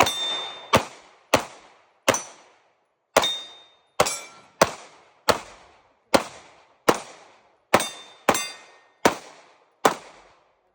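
A 2011-style pistol fired in steady slow fire: fourteen shots, roughly three-quarters of a second apart, with a thin metallic ring after several of them.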